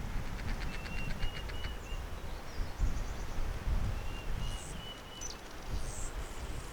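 Wild bird calling: a short run of high, thin notes about a second in and another about four seconds in, with a few higher chirps after, over a low rumble of wind on the microphone.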